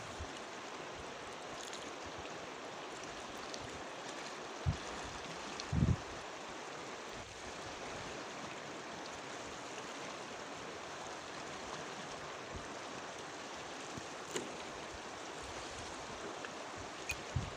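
A river flowing in a steady rush, with a couple of brief low knocks about five and six seconds in.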